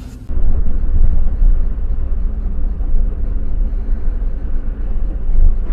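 Steady low rumble of a car on the move, engine and road noise, starting abruptly a moment in.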